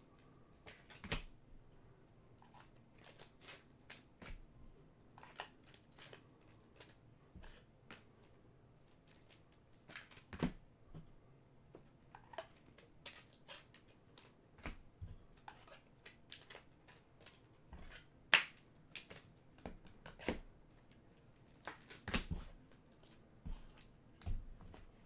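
Trading cards being handled and flipped through, with many scattered short clicks and snaps of stiff card stock at an uneven pace.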